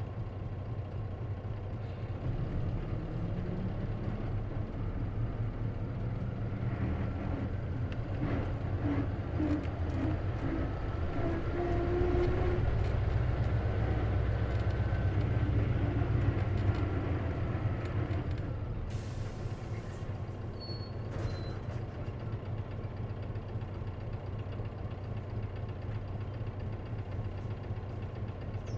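Onboard sound of an Isuzu KC-LV380N city bus with a manual gearbox: the diesel engine pulls and rises in pitch, with a thin whine over the engine while under load, then eases off. About two-thirds of the way through there is a short burst of air hiss. This bus is known for an abnormal running noise, which the owner thinks may be a symptom of the manual transmission.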